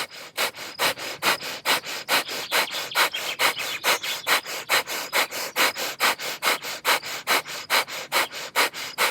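Fire breath: rapid, forceful exhales pushed out through the nose in an even rhythm of about five short puffs a second, each inhale happening passively in between.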